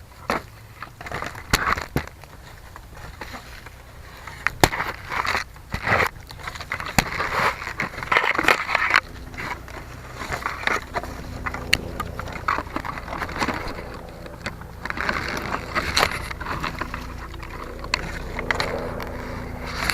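Wind buffeting the small tail-mounted 808 keychain camera's microphone, with irregular crackling, scraping and sharp clicks throughout and a faint steady hum at times.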